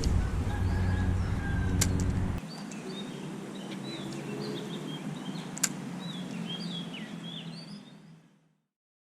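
Low steady vehicle rumble that cuts off sharply about two and a half seconds in. Quieter outdoor ambience follows, with small birds chirping in quick short calls and a couple of sharp clicks, then the sound fades out.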